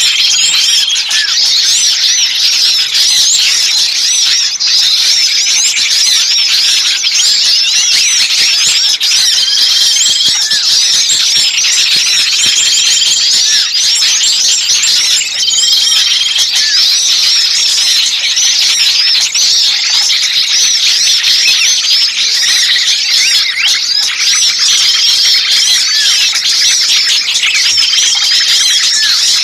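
Bird-lure recording of many small birds calling at once: a dense, continuous high-pitched chatter of chirps and trills, with a short steady whistle repeating every few seconds. It is the agitated 'noisy, pinched' small-bird call used to lure small birds in.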